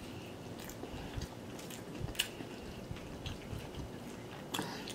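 A person chewing food close to the microphone, with a few soft wet mouth clicks and smacks. The sharpest comes about two seconds in.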